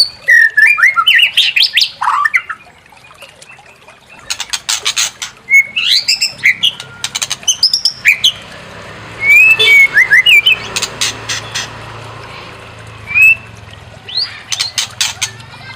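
White-rumped shama (murai batu) singing: trains of rapid, sharp clicking notes alternating with quick rising and falling whistled phrases and chirps, over a faint steady hiss.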